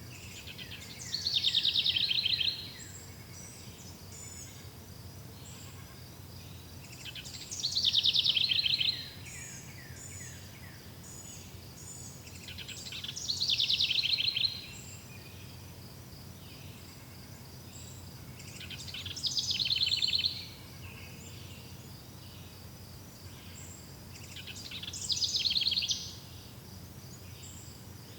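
A forest songbird repeats the same short, rapid song phrase, which falls in pitch, five times at about six-second intervals. Faint steady insect chirring runs underneath.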